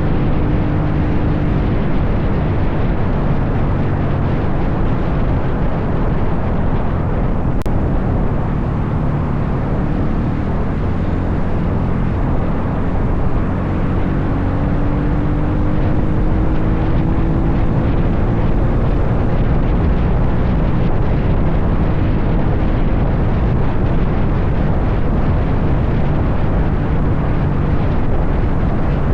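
Dirt bike engine running while riding, its pitch rising and falling slowly with speed, over a steady rushing noise.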